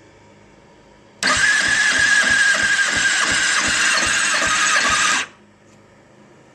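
Electric starter cranking a 2009 Kawasaki ZX-6R inline-four engine for about four seconds, without it firing, during a compression test: a high starter whine with a steady pulse of about four beats a second as the pistons come up on compression. It cuts off suddenly. The battery is weaker than the owner expected.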